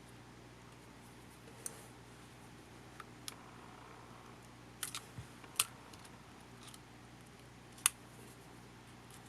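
Scattered sharp clicks and taps of small parts and hand tools being handled while a camcorder is taken apart, over a steady low hum.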